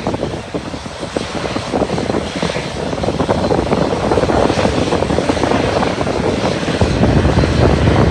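Airplane engine running and growing louder, mixed with gusty wind buffeting the microphone.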